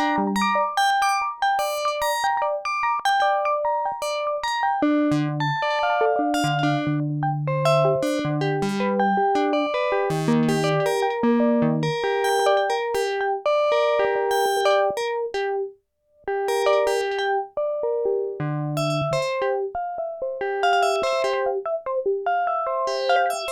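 Newly refurbished Sequential Circuits Prophet-5 Rev 2 analog polyphonic synthesizer being played: short struck notes and chords over low bass notes, with a brief stop about two-thirds of the way through.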